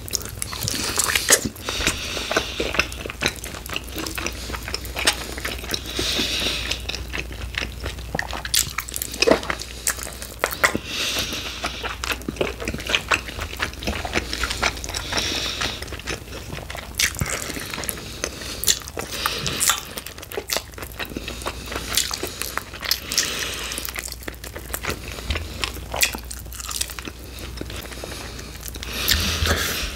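Close-miked eating of sauced chicken wings: repeated bites and chewing with frequent crisp, irregular crunches.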